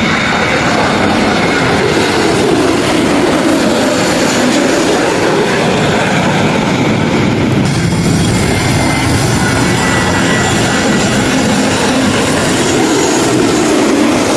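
Loud, steady jet engine noise from an airliner at close range. The hiss in the upper range turns brighter abruptly about halfway through.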